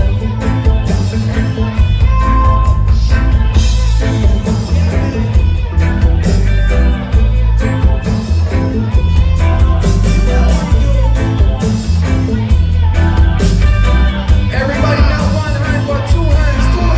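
Live reggae band playing an instrumental passage through the PA, heavy on bass and drums, recorded from within the crowd.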